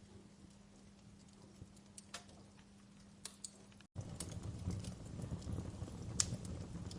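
Wood fire crackling with scattered sharp pops. About four seconds in, the sound cuts out for an instant and returns louder, with a low rumble from the flames under the pops.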